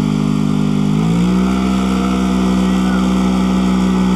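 A vehicle engine held at high, steady revs, stepping up in pitch about a second in and then holding there.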